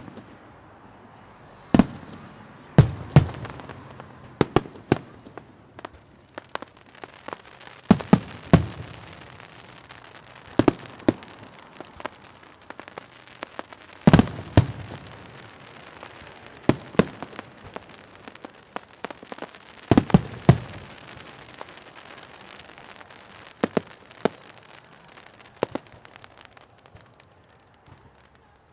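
Fireworks display: sharp bangs of shells going off at irregular intervals, often in quick pairs, some trailing a low rumbling echo, over steady crackling. The bangs thin out near the end.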